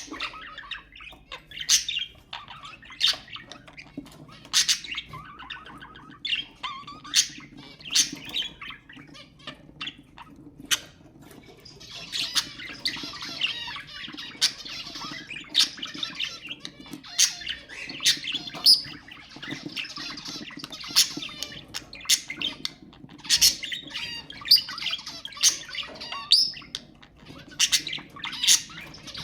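Budgerigars chattering and warbling continuously, with frequent short, sharp squawks and chirps over the top.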